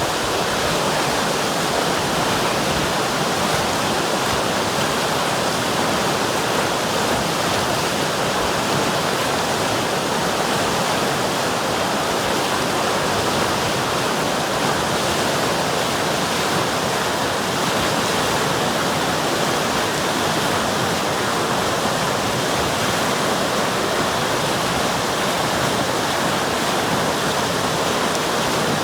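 River water rushing and splashing in a steady, even flow.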